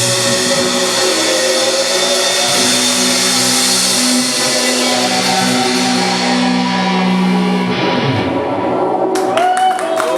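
Live rock band with guitars holding a sustained chord that drops away about eight seconds in, followed by a few short clicks and knocks near the end.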